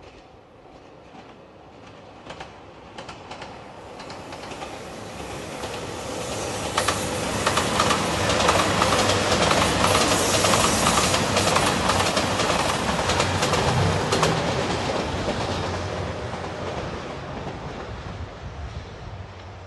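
JR Shikoku 2700 series diesel multiple unit passing close by. Its running noise and engine build over several seconds and peak about halfway, with quick clickety-clack of wheels over rail joints. Then it fades away.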